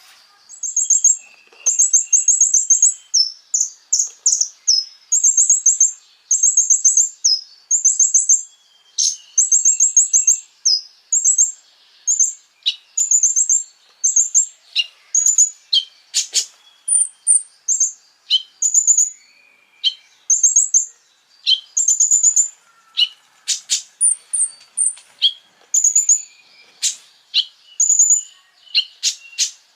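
A konin, a small songbird, singing: short bursts of rapid, very high chirping trills, each under a second long and repeated every second or so, mixed with sharp ticking notes.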